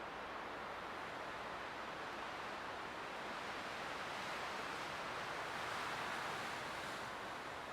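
Light wind blowing as a steady, soft hiss that swells a little past the middle and eases off near the end.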